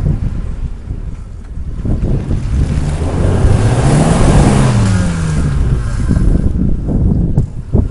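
Off-road vehicle engine running under load, revving up about halfway through and then easing off again, with a steady low rumble underneath.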